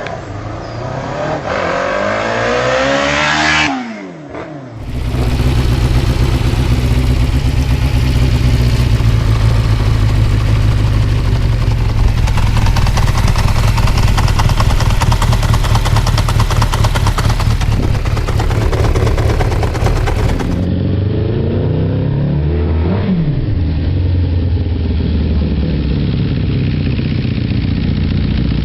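Kawasaki GPZ 600 motorcycle's inline-four engine and exhaust, revving up with a rising pitch over the first few seconds. After a cut it runs steadily for about fifteen seconds. After another cut it runs again, with a quick blip of the throttle partway through.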